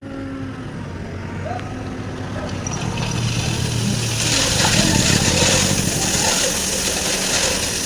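Truck engine running steadily, joined about four seconds in by a loud rushing noise that builds and then holds.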